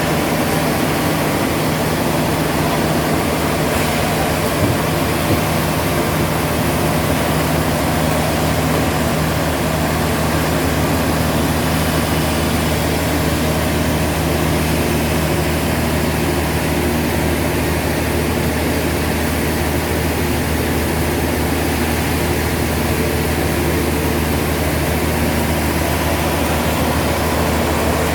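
Heavy sawmill machinery running steadily, a constant low hum over a broad rushing noise, with no change in pitch or loudness.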